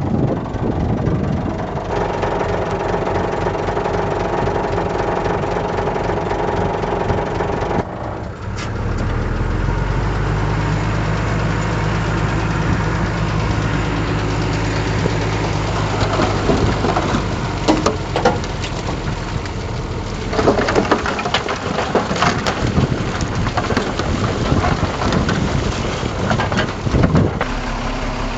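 Diesel engines of heavy earthmoving machinery running steadily, broken into several clips with abrupt changes in engine note, and scattered metallic clanks in the second half.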